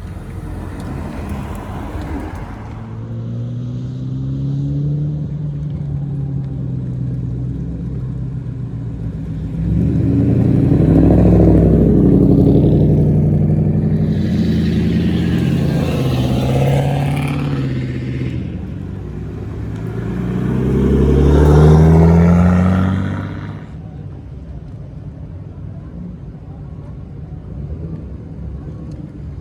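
Customised VIP-style sedans with aftermarket exhausts driving past one after another, each exhaust note swelling and fading as the car passes. There are about three passes, the loudest and longest in the middle, then a lower steady rumble.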